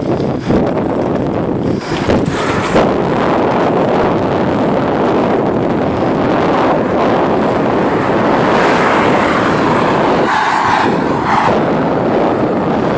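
Wind rushing over the microphone of a handheld camera while cycling, a steady loud noise.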